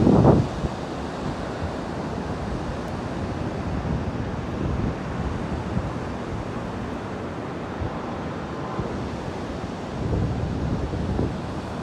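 Ocean surf washing onto the beach, with wind rumbling on the microphone. The rumble is stronger in the first half second and again near the end.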